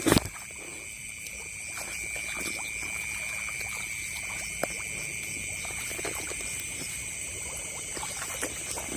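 Night chorus of paddy-field frogs and insects: steady high-pitched trilling that carries on throughout. Scattered small splashes and clicks from wading in the paddy water, with a louder knock right at the start.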